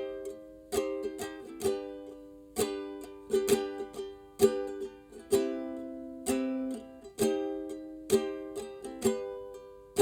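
Instrumental music: chords strummed on a plucked string instrument, struck again roughly once a second with lighter strokes in between, without singing.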